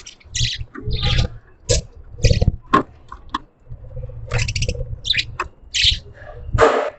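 Pet budgerigars chirping and chattering in many short, quick calls, one after another, over irregular low thuds and rumble.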